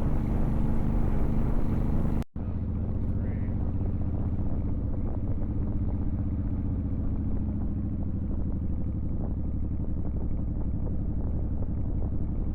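Motorcycle engine running steadily while riding, with road and wind noise. There is a brief cut-out about two seconds in, after which the sound is duller.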